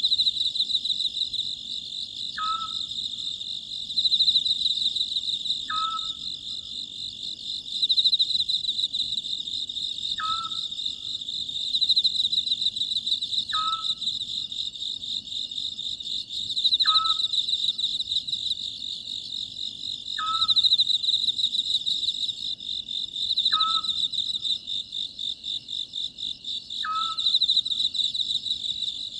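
Oriental scops owl giving its short two-note call about every three and a half seconds, over a steady trilling chorus of crickets.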